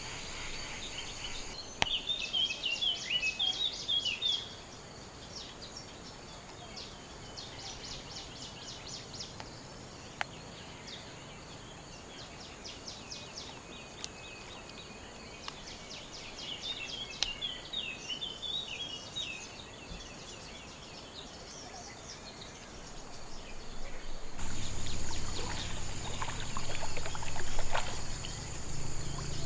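Wild birds singing repeated phrases of quick warbled notes and fast trills, three or four times. A steady high insect buzz comes in near the end, together with a low hum.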